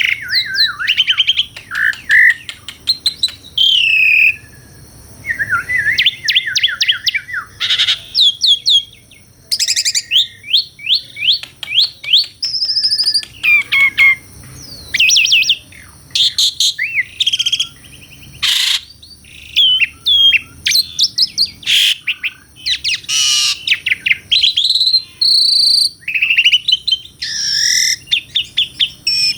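Asian pied starling singing persistently: loud, varied phrases of rapid sliding whistles, chattering note series and sharp clicks, separated by brief pauses.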